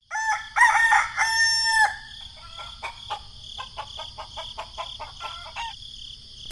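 A rooster crowing, one long call over the first two seconds, followed by a run of short, quieter clucks over a steady high buzz.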